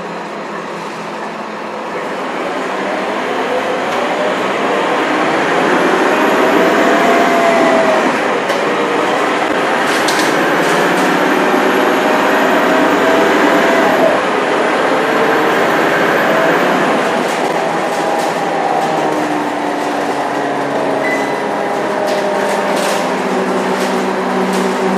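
Scania K230UB bus's diesel engine pulling away under load through its ZF automatic gearbox. The engine note rises, then drops at upshifts about eight and fourteen seconds in. A high turbo whistle rises and falls over it for much of the run, with body rattles now and then.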